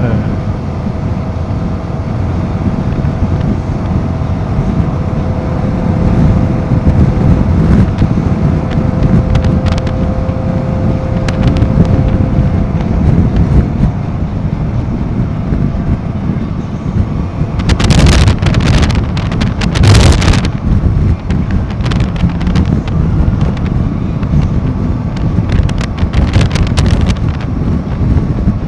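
Royal Enfield Himalayan 450's single-cylinder engine running while the motorcycle is ridden, under steady wind rush on the microphone. Loud gusts of wind noise hit the microphone about two-thirds of the way through.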